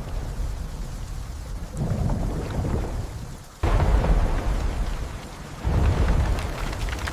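Thunderstorm: deep rolling thunder over steady rain, with a sudden loud crack of thunder breaking in about three and a half seconds in and another swell of rumbling near the end.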